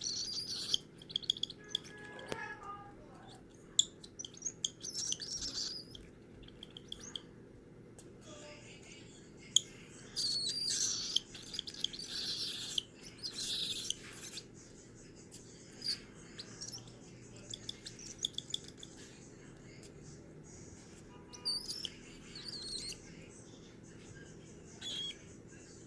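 A one-month-old cockatiel chick chirping in repeated short, high-pitched bursts with pauses between them: the food-begging calls of a hand-fed baby. Scattered faint clicks come in between the calls.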